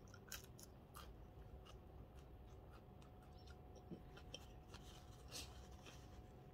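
Faint, sparse eating sounds: quiet closed-mouth chewing of raw green vegetable stems, with a few small clicks and scratchy handling noises, over a low steady room hum.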